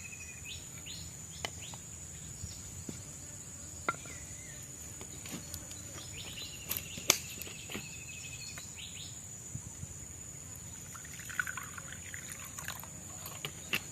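Tropical forest ambience: a steady high-pitched insect drone, with short descending bird trills and a few scattered sharp clicks and knocks, the loudest about seven seconds in.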